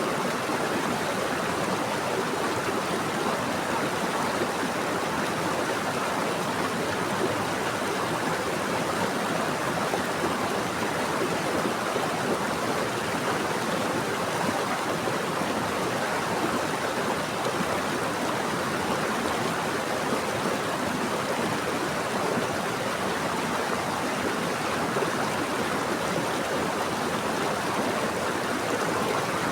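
Running water of a stream flowing over rocks: a steady, even rushing and babbling.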